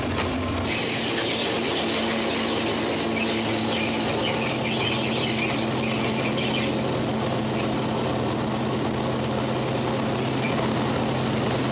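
A diesel locomotive-hauled train running along the track: the locomotive's engine holds a steady drone under a continuous rattle of wheels and running gear. The high rattle eases about two-thirds of the way through.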